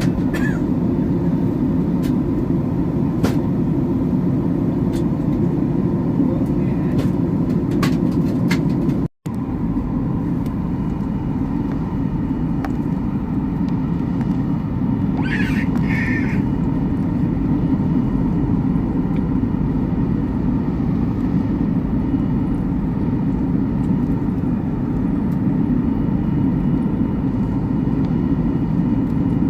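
Steady rumble of a moving vehicle heard from inside the cabin, with a faint steady hum. It cuts out for an instant about nine seconds in.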